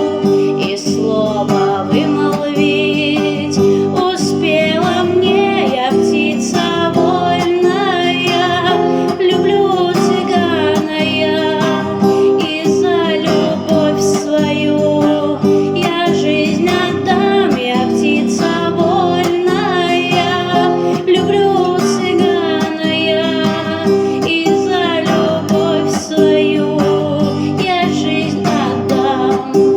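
A woman singing a song to a strummed acoustic guitar.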